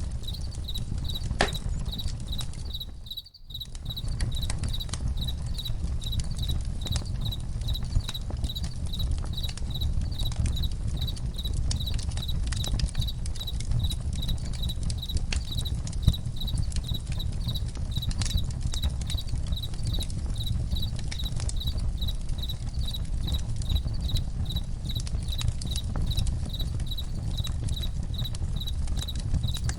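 Crickets chirping steadily at about two chirps a second over a crackling campfire, with sharp little pops and a low rumble underneath. The whole bed cuts out briefly about three seconds in, then resumes.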